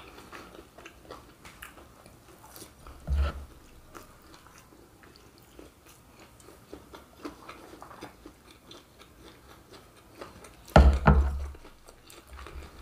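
Close-miked chewing of fried pastéis (Brazilian pastries), with many small wet mouth clicks and two louder thumps, one about three seconds in and a bigger one near the end.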